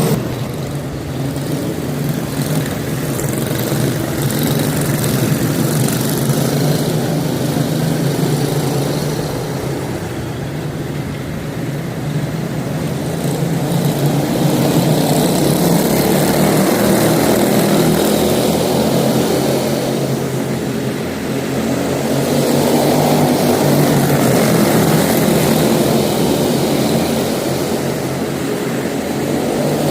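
Several quarter midget race cars running together around the track on small single-cylinder Briggs & Stratton Animal engines. The engine noise swells and fades as the pack goes around the laps.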